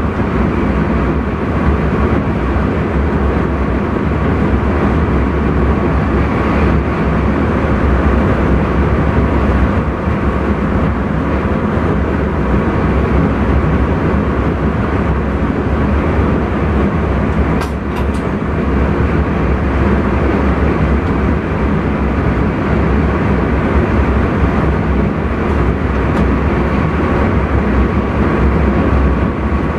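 Intercity train running steadily, heard from inside the driver's cab as a constant rumble with a faint steady whine, and a couple of short clicks a little past the middle.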